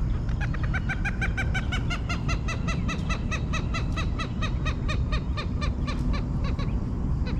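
A bird calling a long, even series of ringing notes, about five a second, falling slightly in pitch and fading toward the end.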